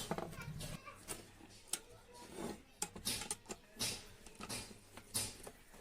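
Irregular clicks, knocks and short scrapes of hand tools and metal parts being handled as an electric rod cutter machine is taken apart, a few per second.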